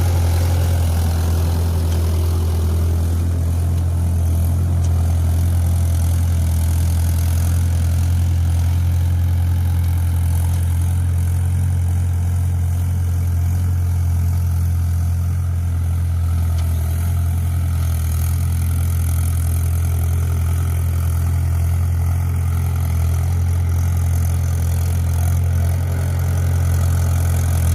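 Mahindra 475 DI tractor's four-cylinder diesel engine running steadily, an even low drone with no change in speed.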